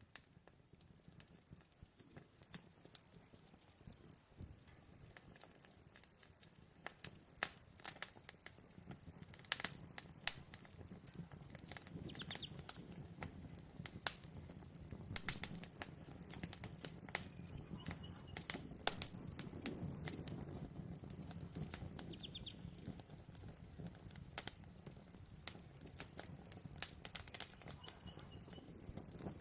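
Crickets chirping in a dense, steady trill that fades in at the start and pauses briefly past the middle, with sharp pops and crackles from a wood fire scattered throughout.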